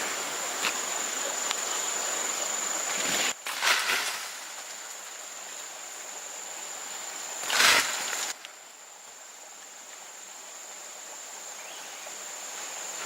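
Insects droning in a steady high pitch over a background hiss of outdoor noise, with three short, louder noises from about three to four seconds in and again at about seven and a half seconds.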